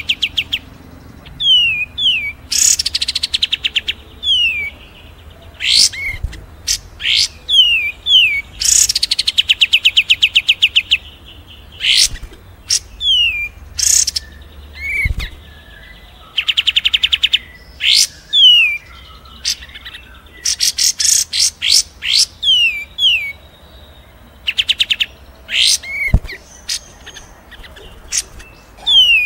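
Looped bird-mastering recording of songbird calls, a mix of kapas tembak, cililin and fighting Eurasian tree sparrow, with no voices. Fast rattling trills come again and again, between pairs of quick falling whistled notes and sharp single chirps.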